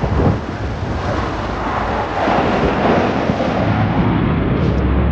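Jet roar of Thunderbirds F-16 fighters flying past: a continuous rumble that swells about two seconds in.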